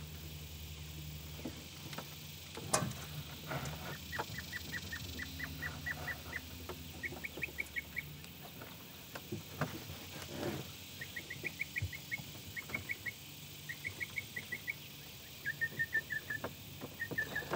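A bird calling in quick runs of short, high chirps, repeated many times from about four seconds in. A few sharp knocks, the loudest about three seconds in, come from the cable being worked through a hose inside the boat's hull.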